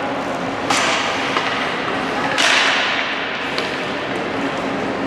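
Sounds of a basketball game in a gymnasium: two sharp slaps with echoing tails, one just under a second in and one about two and a half seconds in, over steady gym background noise.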